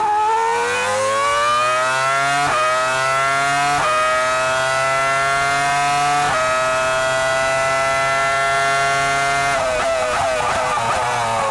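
Formula 1 V10 engine heard onboard, accelerating up through the gears with quick upshifts and then held at high revs. About two seconds before the end it brakes and downshifts with throttle blips, the pitch dropping, then picks up again.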